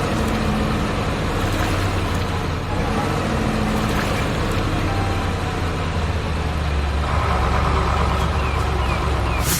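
Heavy vehicle engine running with a steady low rumble, somewhat stronger from about seven seconds in.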